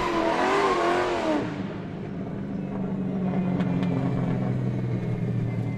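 Stand-up jet ski engine revving up and down, then holding a steady pitch, cut off abruptly at the end.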